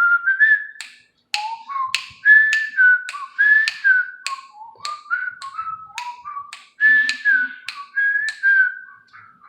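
Pet bird whistling a tune: a run of short, clear whistled notes that step and slide between pitches, many starting with a sharp click, with a brief pause about a second in.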